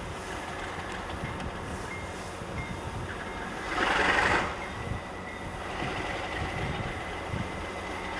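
Train hauled by Alco diesel road-switcher locomotives running, a steady low rumble with a louder hissing swell for about a second midway.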